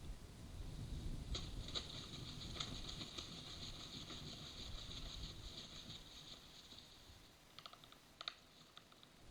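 Low rumble of thunderstorm wind and rain, dying away. About a second in, a rapid high ticking chatter starts and runs for several seconds, followed by a few separate clicks near the end.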